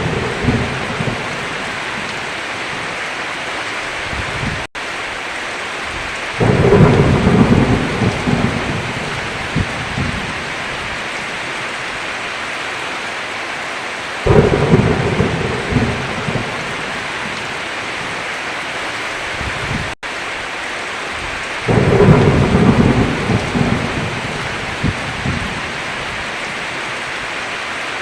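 Heavy, steady rain with rolls of thunder that start suddenly about every seven to eight seconds, each rumbling for two or three seconds. The sound cuts out for an instant twice.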